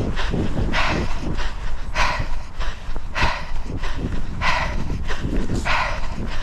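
A runner's heavy, rhythmic panting during a hard interval, about one loud breath every second and a bit.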